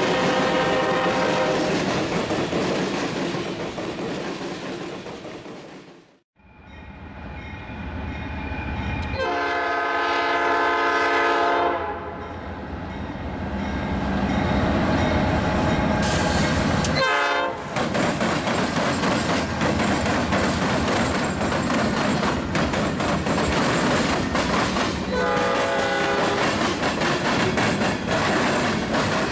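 Freight train rolling past, wheels clacking over the rail joints. A Norfolk Southern diesel locomotive's air horn then sounds one long blast of about three seconds, a short blast a few seconds later and a briefer one near the end, while its train of intermodal well cars rolls past with steady clickety-clack.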